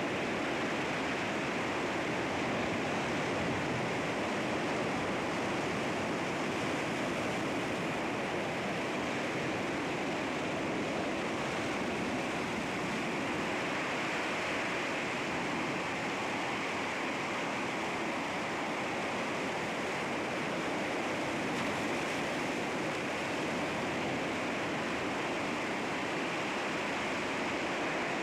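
Sea waves breaking against rocks: a steady, continuous rush of surf with no separate crashes.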